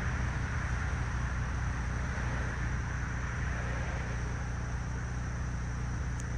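A car driving at a steady pace: a constant low engine hum with tyre and road noise.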